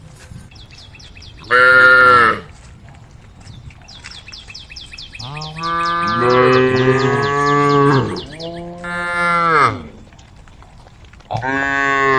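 Cows mooing: four long calls, two overlapping around the middle, each dropping in pitch as it ends. A run of faint, rapid high chirps sounds behind the middle calls.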